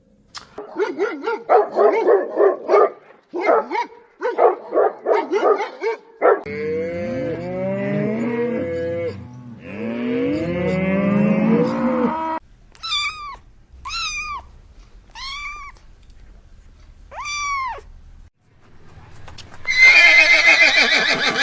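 A run of farm animal calls: a burst of rapid repeated calls, then two long, low moos from cattle, then five short high chirps, and a loud call near the end.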